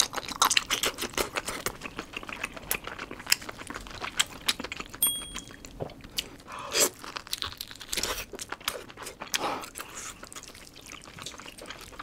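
Close-miked chewing of spicy sauced octopus leg: a steady run of wet, sticky mouth clicks and smacks, sped up. A few short hums come through the chewing in the second half.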